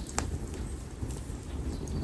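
Split konara oak firewood burning in an open fire: a steady low rush of flame with a sharp crackle just after the start and a smaller pop about a second in.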